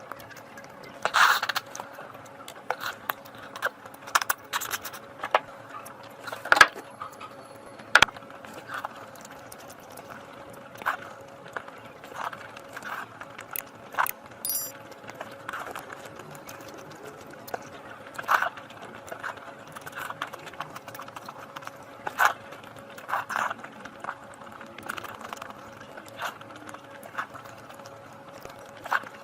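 Close-up eating sounds: irregular wet clicks and smacks of chewing and mouthfuls, some sharper than others, over a steady hum.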